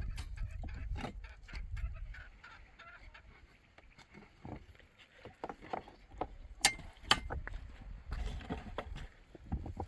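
Domestic chickens clucking in short scattered calls, with a few sharp knocks, two of them louder about two-thirds of the way through.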